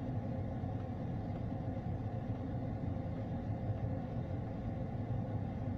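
Ford car engine idling, heard from inside the cabin: a steady low hum with no change in speed.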